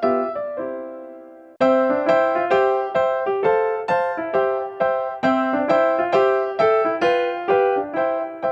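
Background music: a piano-like keyboard tune with plucked-sounding notes at a steady bouncy pace; a held chord fades for about a second and a half before the tune starts again.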